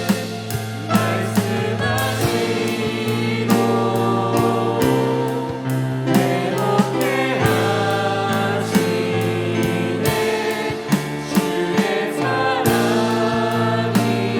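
Christian worship song: voices singing over a band, with a held bass line, changing chords and a steady drum beat.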